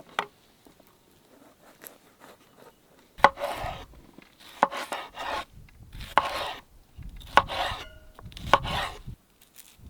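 A knife cutting food on a cutting board: five slow cuts about a second and a half apart, each a sharp start followed by a short rasp.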